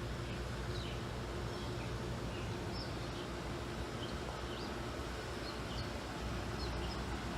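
Small birds chirping in short, scattered calls over a steady low drone.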